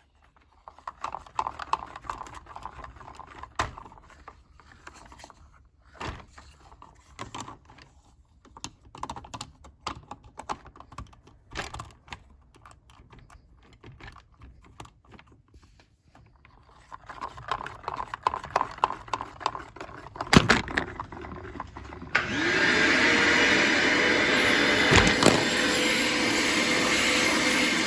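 Light plastic clicking and clattering of Lego parts, then, about 22 seconds in, a vacuum cleaner motor switches on with a rising whine and runs steadily and loudly, supplying the suction that drives a Lego vacuum engine.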